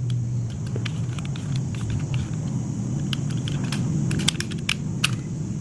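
A steady low hum with scattered small clicks and taps.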